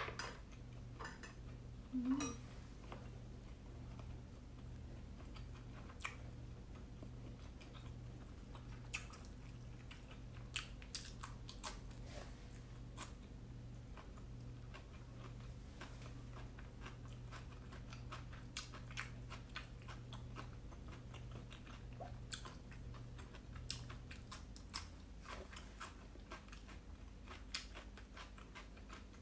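Close-miked chewing and mouth sounds of a person eating steamed siomai dumplings: many small wet clicks and smacks, scattered irregularly. A faint steady low hum underneath stops about four-fifths of the way through.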